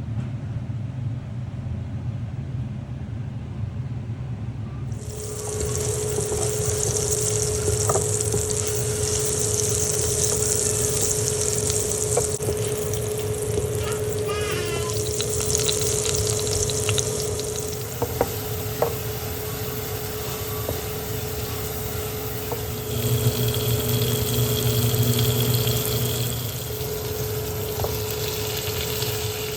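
Kitchen tap turned on about five seconds in, water running into a sink, with a few clinks of dishes or utensils.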